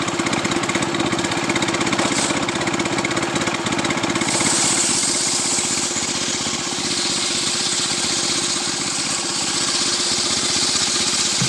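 Two-stroke Stihl chainsaw engine running steadily. From about four seconds in, a brighter high hiss joins the engine sound.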